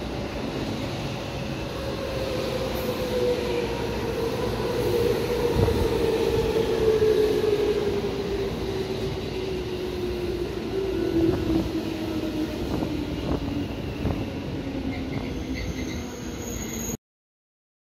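JR West 221 series electric train pulling in and braking: its motor whine falls steadily in pitch as it slows, with scattered wheel clicks over the rails. The sound cuts off suddenly near the end.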